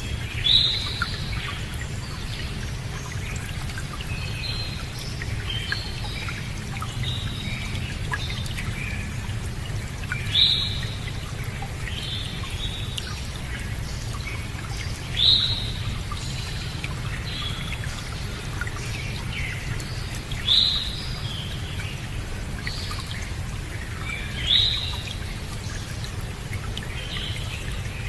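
Songbirds calling: a loud, sharply falling call about every five seconds, five in all, with softer chirps in between, over a steady low rush of running water.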